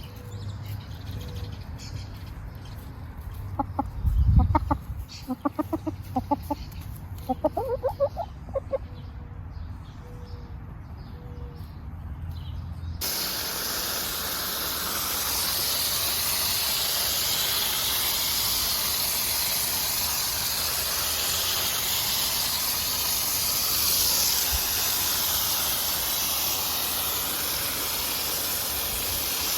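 Chickens clucking in a quick run of short calls, then an abrupt cut to a steady, louder hiss of water spraying while plants are watered.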